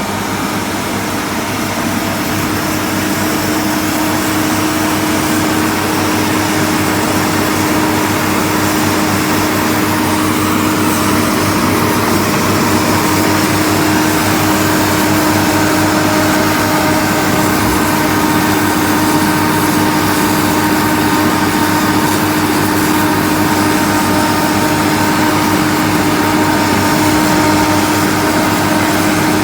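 Engine of manure-pumping equipment running steadily at constant speed, with a steady hum.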